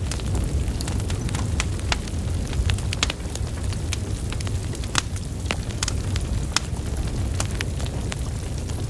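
Burning wood logs crackling: irregular sharp pops and snaps over the low, steady rumble of the flames, with one louder snap about five seconds in.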